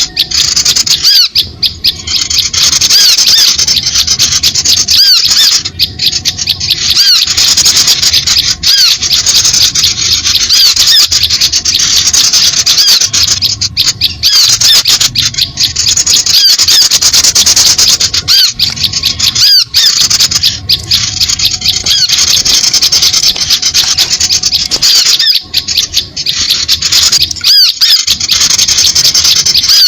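A dense chorus of many small birds chirping rapidly and without pause, the noisy flock chatter used as a bird-lure call.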